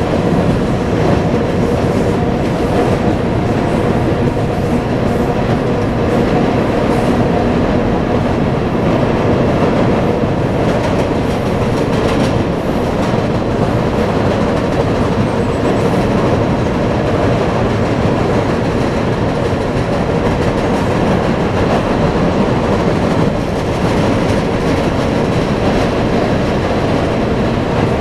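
Freight train rolling across a high railroad bridge, heard from beneath it: a loud, steady rumble of wagons with clatter from the wheels and the bridge structure.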